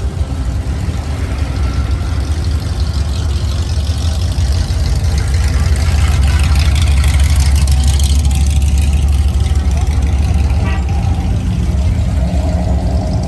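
Car engines rumbling, swelling louder about six to ten seconds in, with people talking in the background.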